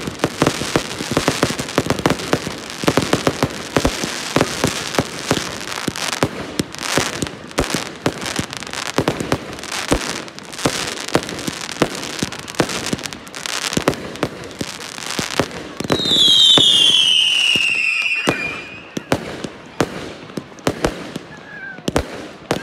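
Fireworks going off: a dense run of crackling and banging aerial bursts, then a loud screaming whistle that falls in pitch for about two seconds, followed by a few scattered bangs.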